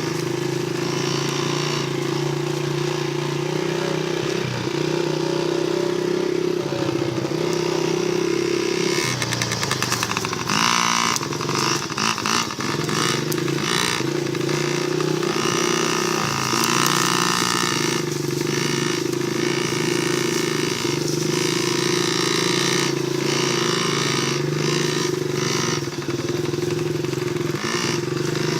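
Dirt bike engine running steadily, its pitch stepping up and down with the throttle, with a stretch of rattling about ten seconds in.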